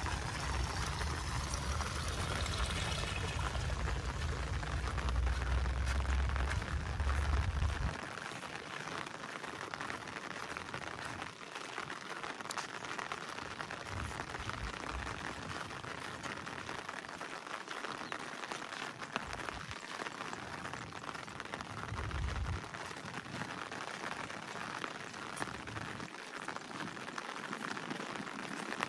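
Rain falling steadily, an even hiss of drops. A low rumble sits under it for the first several seconds and stops abruptly.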